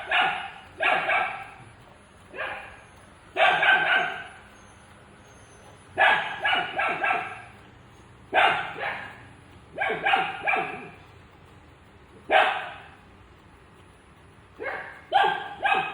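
A dog barking repeatedly: single barks and quick runs of two to four barks come every second or two throughout.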